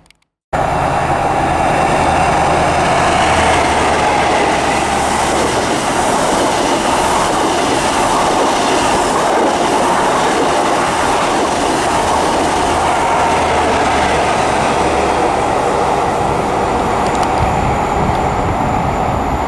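High Speed Train (InterCity 125) with Class 43 diesel power cars passing through the station at speed: loud, steady engine and wheel noise, easing slightly near the end.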